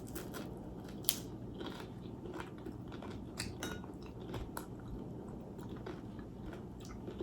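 Close-up biting and crunchy chewing of crispy fried dried fish (daing na bisugo): one sharp crunch about a second in, then many small irregular crunches as it is chewed.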